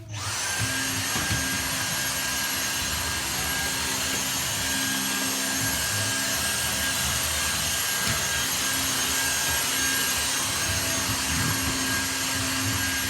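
Vacuum cleaner switched on and running steadily, a loud motor hiss with a thin high whine, starting abruptly and holding level.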